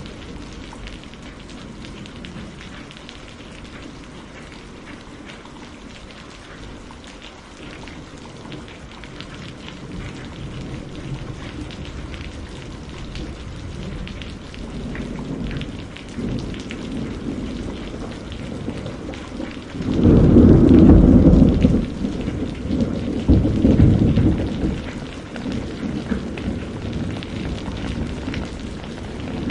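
Steady rain falling and slowly growing heavier. About twenty seconds in, a loud low rumble of thunder breaks in suddenly and lasts a couple of seconds, with a second rumble a moment later before the rain settles again.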